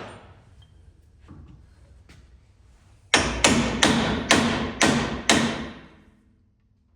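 Hammer blows on steel: six sharp strikes about two a second, each ringing briefly. The strikes come about three seconds in, as the mounting bolts of a laser screed's hydraulic cylinder are knocked out.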